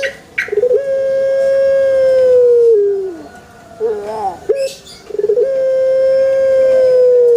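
Puter pelung (ringneck dove, Streptopelia risoria) giving its long call twice: a few short bending notes, then one long, drawn-out note held steady for about two seconds that drops in pitch at its end.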